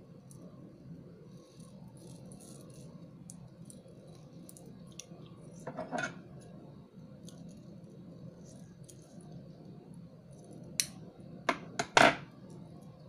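Small hard clicks and taps of plastic beads, a T-pin and round-nose pliers being handled on a work surface: scattered faint ticks, a short scrape about halfway through, and a few sharp clicks near the end.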